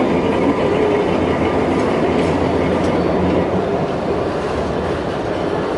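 A train running on rails: a steady, loud noise of wheels and carriage.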